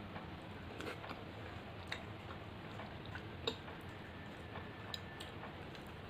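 Quiet eating of rice and fish curry: soft chewing and squishing with scattered small clicks, the sharpest one about three and a half seconds in.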